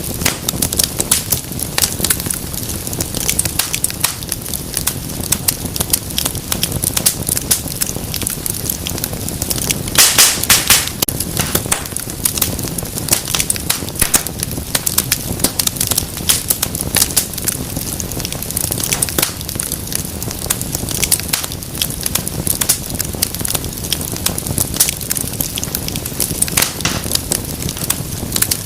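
Wood fire in a fireplace crackling, with constant sharp pops and snaps over a low rumble of flame, and a cluster of louder pops about ten seconds in.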